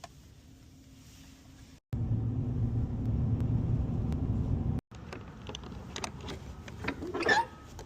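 A loud, steady low rumble lasts about three seconds and cuts off abruptly. It is followed by scattered metallic clicks and clinks, loudest near the end.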